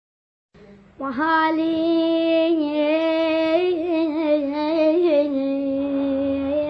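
A high solo voice singing an Iraqi-style song in long held notes that waver and turn in ornaments, starting about a second in after a moment of silence.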